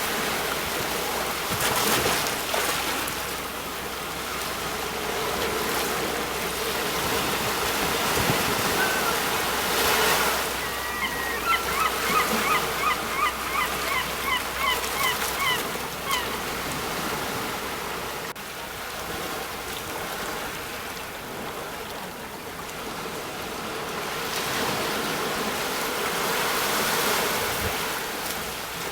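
Sea waves washing onto the shore in slow swells of surf. In the middle, a bird gives a rapid series of short honking calls lasting about five seconds.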